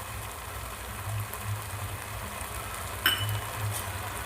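Sauce sizzling gently in a kadai on the stove, a steady hiss, with one sharp clink about three seconds in.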